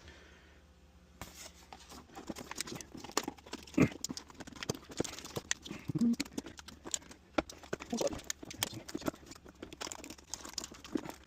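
Hands fitting a sheet of lining material into the case: crinkling, rustling and tearing, with scattered clicks and knocks, one loud knock about four seconds in.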